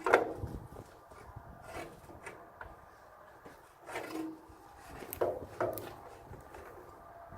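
Wood knocking and rubbing in a few irregular bumps and scrapes, the loudest right at the start.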